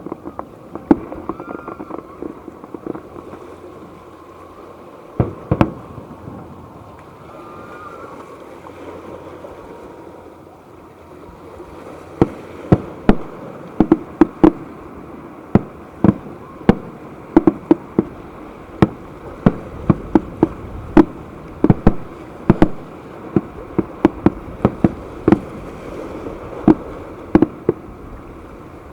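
Fireworks display: aerial shells bursting in sharp bangs over a steady background hiss. There are a few scattered bangs at first, then a steady barrage of one or two a second from about twelve seconds in.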